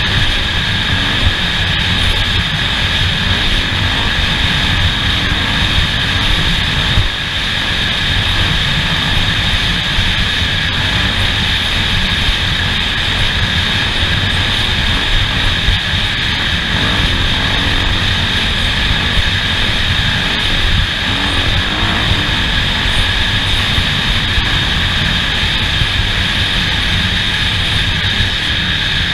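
A motor running in a steady drone, with a constant high whine over a rough low rumble; the pitch holds throughout with no revving.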